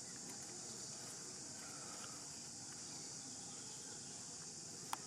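A steady, high-pitched insect chorus drones without a break. Near the end there are two short, sharp sounds close together.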